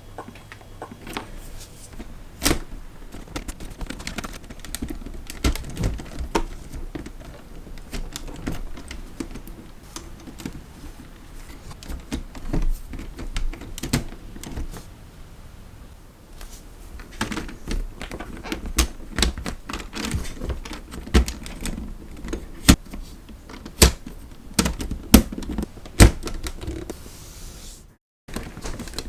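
Irregular clicking and clacking of Lego Technic plastic parts, the mechanical clatter of the air-powered Lego car and its pneumatic engine, with louder sharp knocks coming more often in the second half.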